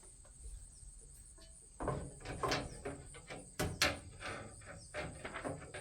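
Metal parts of a vertical smoker being handled and fitted: a run of knocks and clatter starting about two seconds in, with two sharp knocks near the middle.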